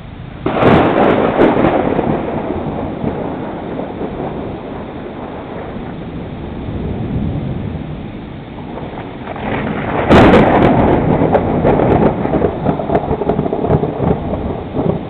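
Two loud claps of thunder over steady rain: the first cracks about half a second in and rolls on for several seconds, and the second, the loudest, cracks about ten seconds in and rumbles on to the end.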